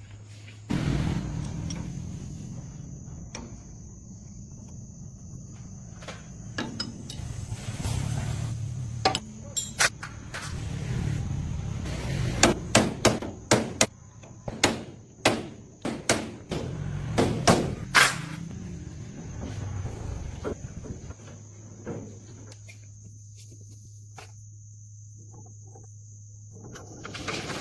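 A run of about a dozen sharp hammer blows in quick succession in the middle, with scattered single knocks before it. A low hum and a steady high-pitched tone run underneath.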